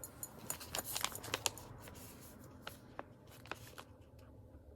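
Light rustling and clicking of items and packaging being handled, busiest in the first second and a half, then a few scattered clicks.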